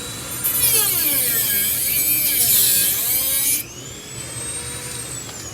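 High-speed rotary tool (Dremel-type) whining, its pitch dragging down as the bit grinds into the ceiling fan's metal parts for about three seconds, then the grinding stops and the motor whine climbs back up to free-running speed.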